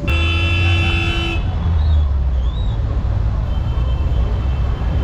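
A vehicle horn sounds once, a single steady note lasting a little over a second, near the start. Under it runs the steady low rumble of street traffic engines.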